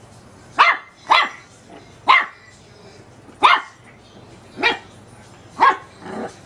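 Teacup chihuahua puppy barking at a light bulb: six short, sharp, high-pitched barks at uneven gaps, then a softer, lower sound near the end.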